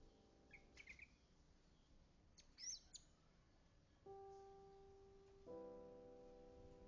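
Two brief, faint bursts of bird chirping, followed about four seconds in by soft, slow piano notes held and joined by a fuller chord.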